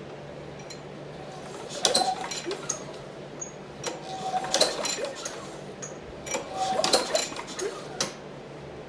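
Recoil starter of a Briggs & Stratton lawnmower engine pulled three times. The engine spins over freely with its spark plug out and does not fire, for want of spark.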